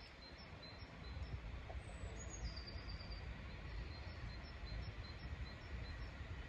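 Small birds chirping: short high chirps repeated a couple of times a second, with one falling whistled note about two seconds in, over a steady low outdoor rumble.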